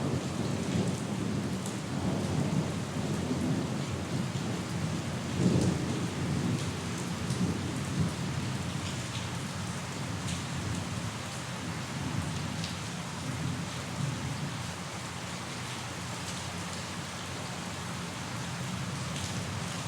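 Steady rain falling, with scattered drop ticks. A low rolling thunder rumble fills roughly the first half and fades away about eight to nine seconds in, leaving the rain hiss alone.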